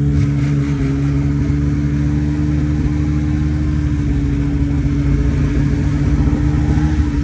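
A vehicle engine running steadily at one constant speed, a steady drone.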